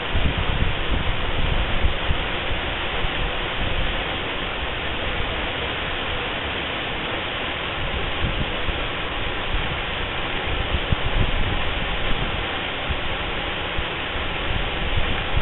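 Waterfall pouring steadily into its pool: a dense, even rush of falling water with uneven low rumbling beneath.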